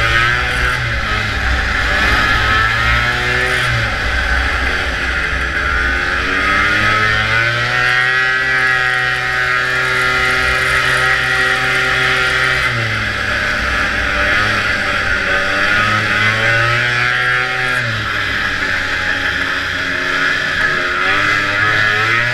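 Vintage racing snowmobile's two-stroke engine under way, the revs climbing, holding high for a few seconds and dropping off again, several times over: throttle opened and rolled back through the course.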